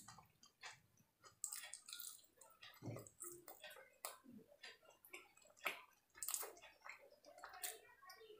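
Close-miked eating sounds: soft, irregular wet clicks and smacks of chewing chilli chicken, with fingers tearing the chicken on the plate.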